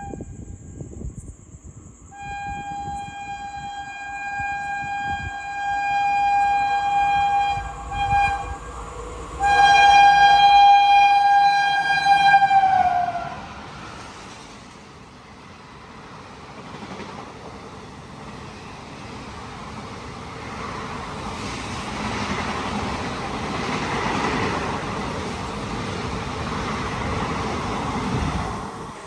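An Indian electric locomotive's horn sounds two long blasts, the second louder and falling in pitch as it ends. Then an ICF-coach express runs through the station at about 110 km/h, its steady rush and rumble building and then cutting off suddenly near the end.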